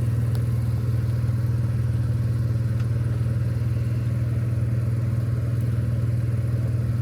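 Portable generator running at a steady drone, powering the travel trailer's electric front lift.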